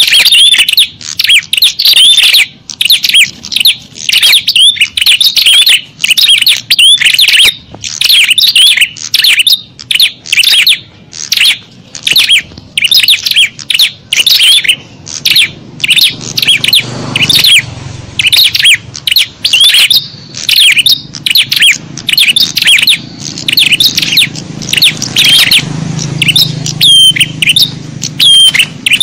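A loud, busy chorus of small songbirds chirping and twittering in rapid, unbroken high-pitched notes: a small-bird lure call (suara pikat) used to draw small birds in.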